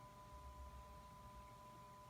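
Near silence: faint background with a thin steady tone, and a slight low rumble about half a second in.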